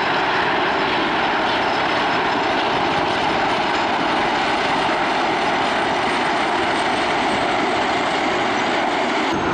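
A formation of military and civil helicopters flying past: a loud, steady rush of turbine and rotor noise.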